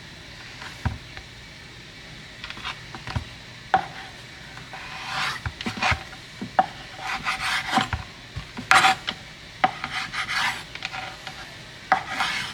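Irregular rubbing and scraping strokes against a hard surface, with a few sharp knocks in between, busier in the second half.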